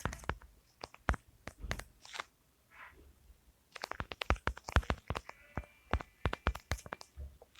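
Irregular sharp clicks and crunchy taps close to the microphone, stopping for about a second and a half near the middle and then coming thick and fast again.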